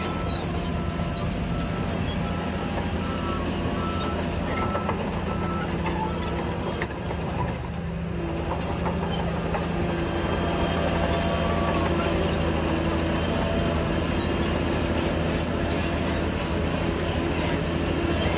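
Shantui DH17C3 bulldozer's diesel engine running steadily, with faint high whines over the low drone. The sound dips briefly about seven seconds in, then runs a little louder.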